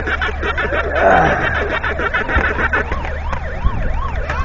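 A siren sounding: a slow falling wail about a second in, then a fast yelp, the pitch sweeping up and down two or three times a second.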